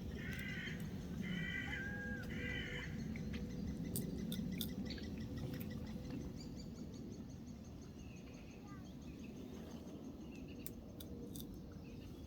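Birds calling outdoors: three short harsh calls in the first three seconds, then a thin, rapid high trill, over a steady low rumble.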